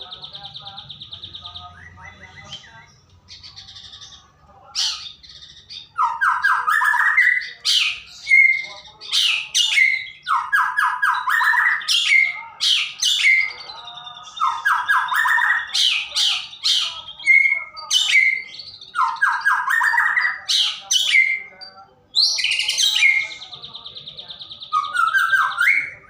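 White-rumped shama (murai batu) singing: a fast buzzy trill at the start and again near the end, and between them loud, varied phrases every couple of seconds, each a rapid rattle rising in pitch followed by sharp whistled notes.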